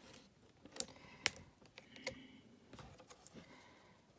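A few faint, scattered clicks and soft rustles of a picture book being handled, as a page is turned.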